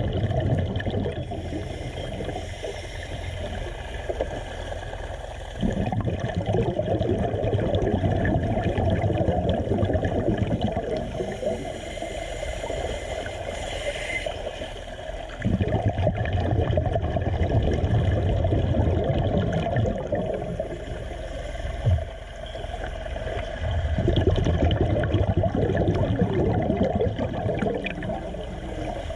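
Underwater sound of a diver's exhaled air bubbling in bursts that start suddenly about every nine to ten seconds and last several seconds each, over a steady mechanical hum.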